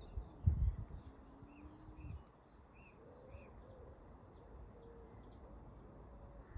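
Small birds chirping repeatedly in the background, with a low thump about half a second in.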